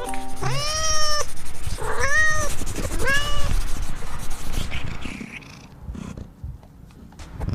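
A domestic cat meowing loudly three times in quick succession, each meow under a second long and rising then levelling in pitch, followed by quieter scattered noises.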